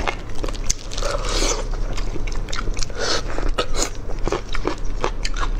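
Close-miked chewing and biting of braised chicken, a dense run of wet clicks and crackles from the mouth, with a few longer wet, smacking patches.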